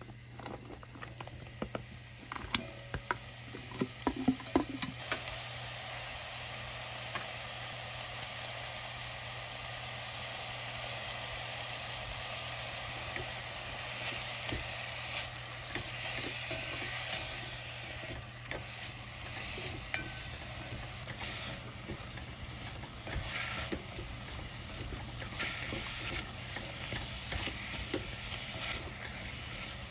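Cubed beef and radish sizzling as they are stir-fried in a stainless steel pot, with a spatula stirring and scraping against the pot; the meat is being seared on the surface at medium-low heat. A few sharp knocks in the first five seconds as the ingredients go in, then a steady hiss.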